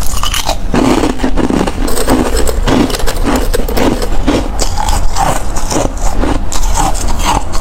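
Close-miked chewing of ice: loud, dense, continuous crunching with many irregular sharp cracks.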